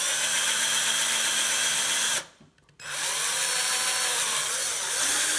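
Small electric drill running in two bursts, drilling into a quick-release skewer, with a short stop a little after two seconds in; its pitch sags and recovers as the bit bites.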